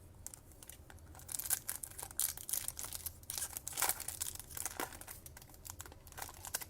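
A foil trading-card pack wrapper being torn open and crinkled by hand, with irregular sharp crackles.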